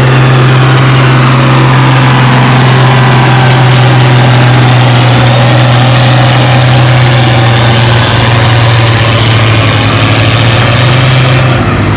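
Farmall 806 tractor engine working hard under full load, pulling a 9,000-pound weight-transfer sled down the track. Its sound is loud and steady, with a slight change in its note near the end.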